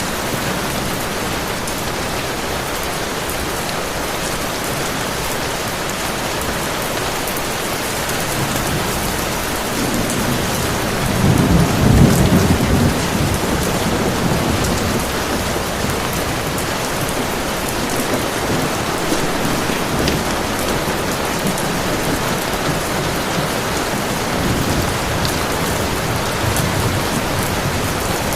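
Heavy rain falling steadily, with a roll of thunder that swells about ten seconds in and dies away a few seconds later.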